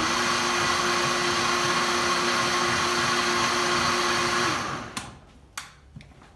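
Vitamix blender running at high speed, blending a liquid salsa verde, milk and cilantro sauce with a steady whirring hum. It winds down and stops about four and a half seconds in, followed by a few light clicks and knocks.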